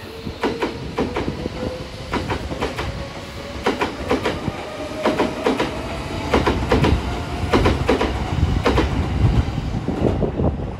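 A train running past on a nearby track: its wheels clack over rail joints, mostly in quick pairs, over a thin electric motor whine that slowly rises in pitch as it gathers speed.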